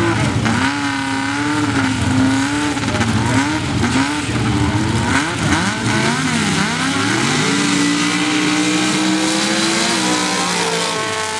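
Drag-racing engines at a sand drag strip revving, their pitch swinging up and down, with more than one engine's note crossing in the middle. One engine then holds a steady high note for a couple of seconds before dropping off near the end.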